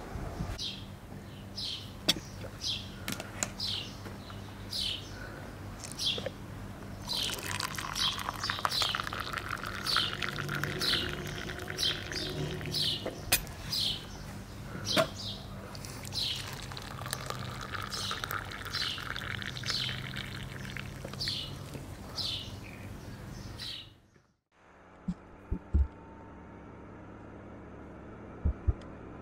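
Small birds chirping, short sharp calls one or two a second, over a steady low hum. About 24 seconds in, it cuts to steady road noise inside a moving car, with a couple of thumps.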